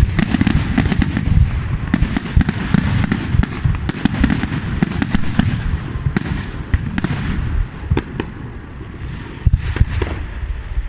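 Aerial fireworks display: a dense barrage of booming bangs and crackling shells. It thins out after about seven seconds to scattered loud bangs.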